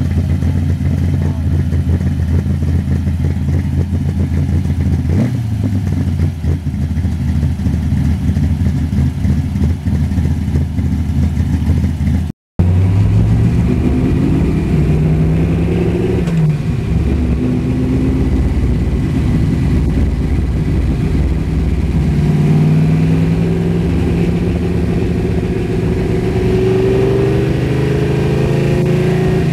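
A motor vehicle engine idling steadily. After an abrupt cut about twelve seconds in, an engine revs, its pitch rising and falling several times.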